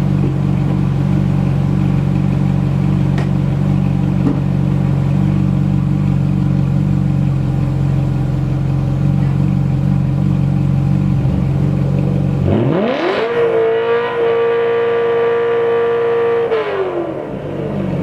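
V8 sports car engine idling steadily, then revved hard about two-thirds of the way in: the pitch climbs quickly, holds at high revs for about four seconds, and drops back to idle near the end.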